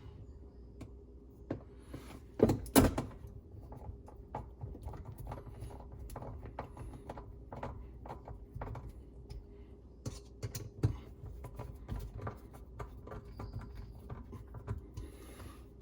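Plastic dishwasher sump parts being handled and screwed down, giving scattered light clicks and knocks with two louder thunks about two and a half seconds in.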